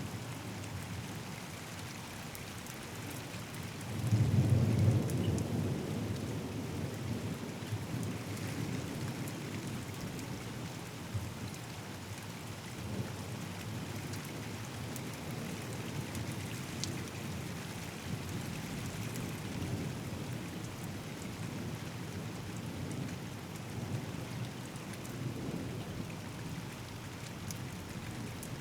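Thunderstorm: steady rain falling, with a loud, low thunderclap about four seconds in that rumbles away over several seconds, and fainter rolls of thunder later on.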